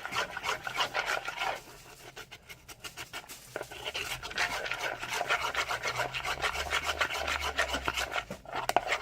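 A utensil scraping and stirring thickening homemade slime in a bowl: quick rasping strokes in a rapid run, dropping off for a couple of seconds and then picking up again, as the glue mixture starts to bind with the activator.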